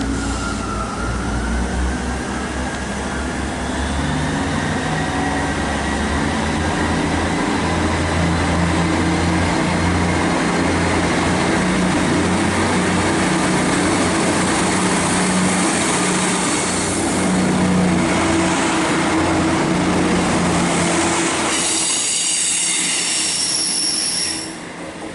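Class 158 diesel multiple unit pulling out of the station, its underfloor diesel engines running under power with a steady rumble. Near the end, high-pitched wheel flange squeal rings out for a few seconds and then stops abruptly.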